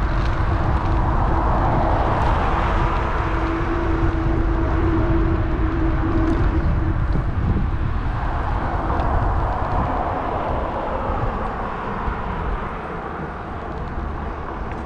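Wind buffeting an action camera's microphone on a moving bike, with road traffic running alongside. A steady hum sounds through the first seven seconds or so, and the noise eases off toward the end.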